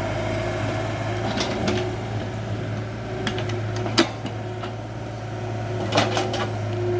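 Excavator's diesel engine running steadily with a whine from the hydraulics, with several sharp metallic knocks from the machine working, the loudest about four seconds in.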